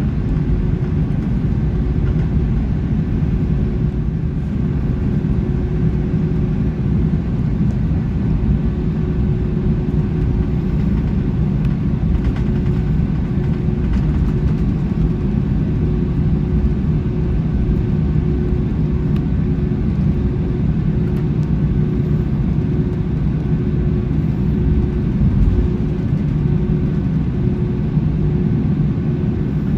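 Airbus A321 cabin noise heard from a window seat: a loud, steady engine and airflow rumble with a constant hum.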